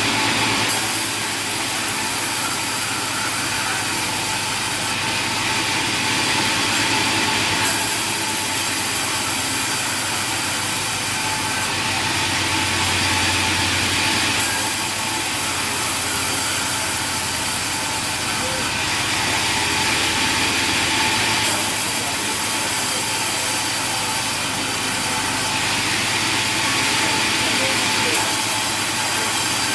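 Sawmill machinery running steadily, with saws cutting through wood and a constant high hiss. The mix of machine noise shifts every few seconds.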